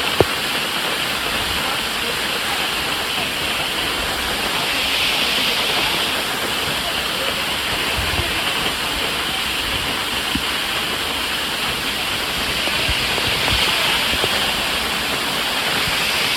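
Waterfall pouring steadily: a constant rush of falling water that swells a little twice, with one sharp click just after the start.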